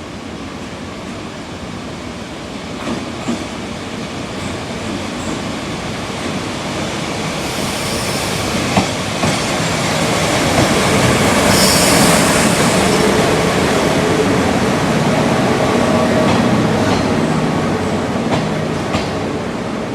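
Train rolling through a station, growing louder to a peak a little past halfway and then easing. There is rail-joint clatter and a brief high wheel squeal just before the loudest point.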